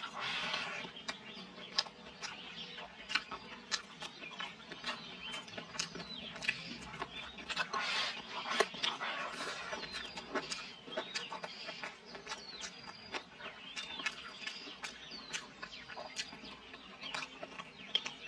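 Close-up eating sounds: a mouthful of spicy chicken being chewed wetly, with many sharp clicks from chewing and chopsticks against the bowl.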